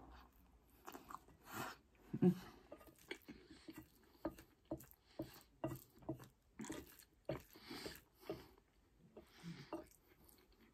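Close-up chewing of loaded fries: wet mouth smacks and clicks in short, irregular bursts, with one louder click about two seconds in. Near the end a fork scrapes and taps the plate as it scoops more food.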